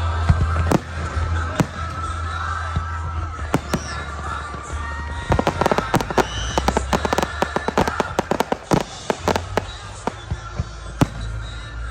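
Fireworks bursting, scattered bangs at first, then a dense volley of rapid crackling reports from about five seconds in to about nine and a half seconds, thinning out afterwards. Music plays underneath.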